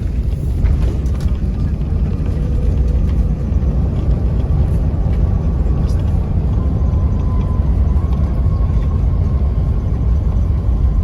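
Steady deep rumble inside an Airbus A380 cabin during landing. A faint steady whine comes in about halfway through.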